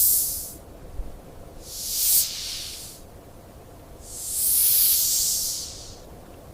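Snake hissing three times: a short hiss at the start, a second that swells and cuts off about two seconds in, and a longer, louder one about four seconds in.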